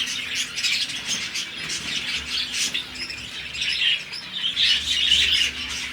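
Budgerigars chattering and chirping, a dense, continuous flock chatter of many short high calls.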